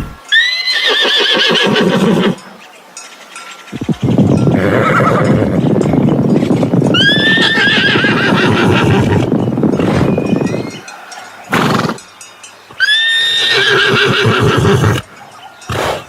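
Horse neighing: three loud whinnies, each opening on a high held note that breaks into a quavering trill. A long rough, noisy sound runs under and before the second whinny.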